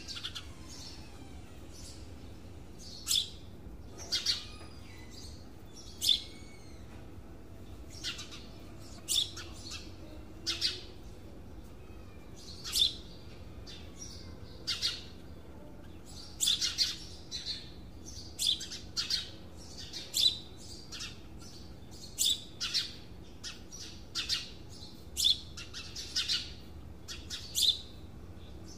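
Bird chirping in short, sharp calls, one every second or two at first and more often in the second half.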